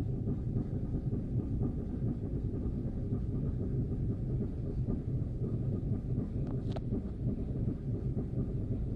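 Boat motor running steadily, a continuous low rumble, with wind buffeting the phone's microphone.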